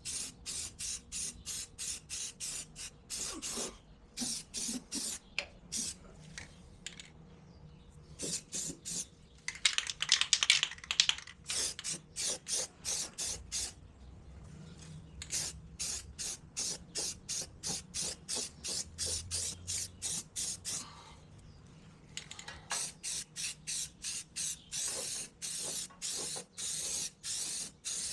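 Aerosol spray-paint can sprayed in quick short bursts, about two to three hisses a second, with a few brief pauses and a louder, denser stretch about ten seconds in.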